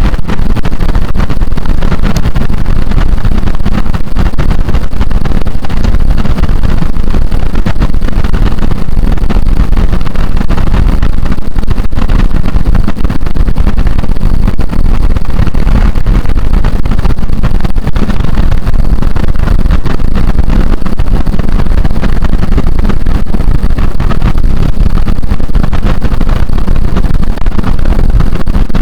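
Car driving at expressway speed in the rain: a steady, loud rush of tyre and wind noise with no letup.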